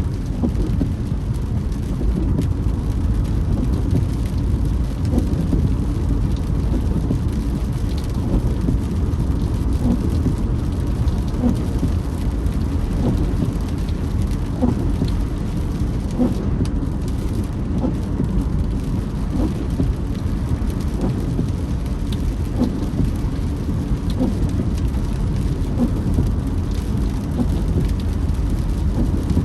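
Rain falling on a moving car over a steady low rumble of tyres on the road, with many small scattered drop ticks.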